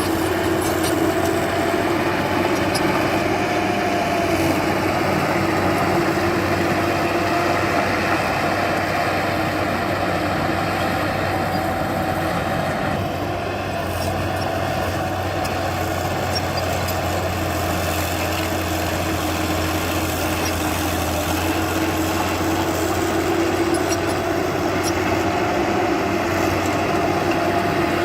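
Heavy diesel engine of an earthmoving machine running steadily, with a slight drop in level about halfway through.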